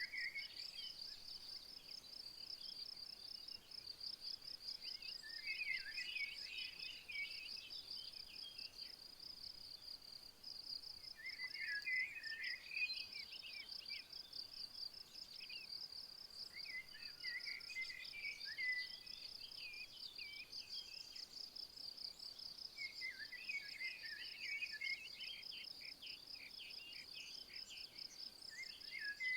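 A steady high-pitched insect trill, rapid and evenly pulsed without a break, with a songbird singing short warbling phrases about every five or six seconds.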